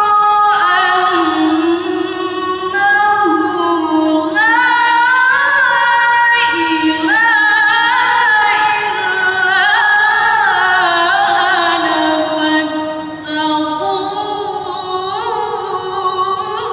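A woman reciting the Qur'an in the melodic tilawah style, with long held phrases ornamented with wavering turns and short pauses for breath, one of them about 13 seconds in.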